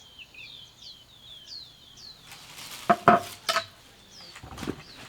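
A few sharp metal clanks with a brief ringing note, bunched about three seconds in, while a bird repeatedly gives short falling chirps.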